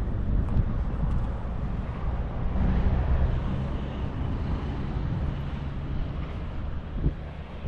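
Fiat 600's swapped-in 1.6-litre four-cylinder engine running steadily while the car drives, with wind buffeting the microphone.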